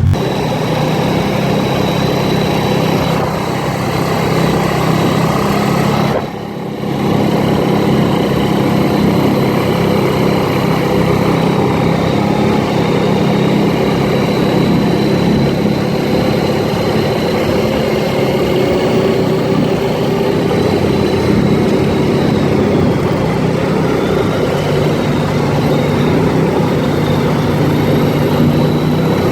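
ATV engine running steadily under way, with a short drop in engine sound about six seconds in.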